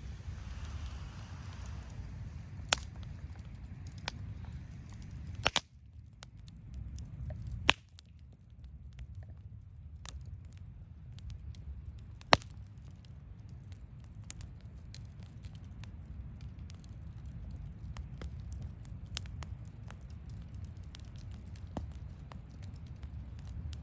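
Wood campfire crackling, with many small snaps and a few loud pops over a low steady rumble of the fire.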